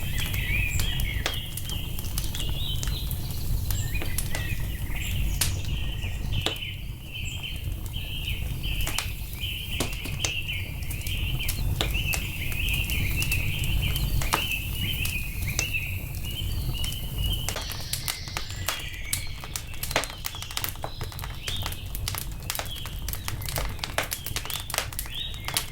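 Wood fire crackling, with sharp pops over a low steady rumble, while small birds chirp busily. About two-thirds of the way through the birdsong stops and the crackling grows denser.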